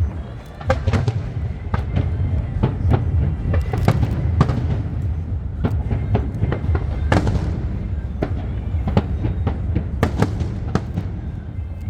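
Fireworks display: an irregular string of bangs and cracks, several a second, over a continuous low rumble from the bursting shells.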